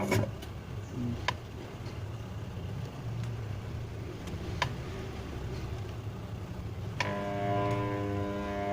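A few sharp clicks, then about seven seconds in a steady electric hum starts: the twin-tub washing machine's wash motor humming without turning, the fault of a washer that will not spin.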